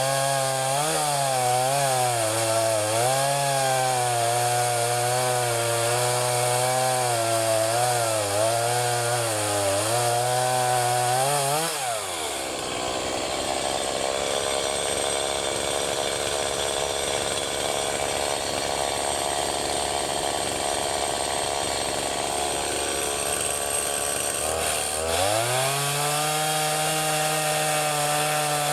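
Two-stroke chainsaw running at high revs with its pitch wavering as it cuts into a cherry tree. It drops to idle about twelve seconds in and revs back up near the end.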